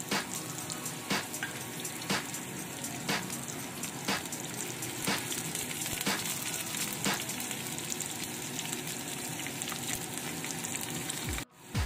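Chopped garlic, ginger and onion sizzling in hot oil in a stainless steel wok, a steady frying hiss that cuts off abruptly near the end.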